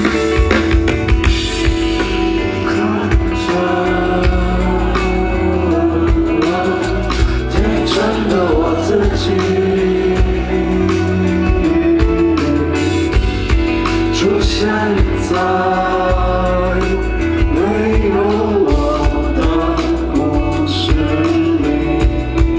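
Live rock band playing, with a male lead singer over drum kit and guitars.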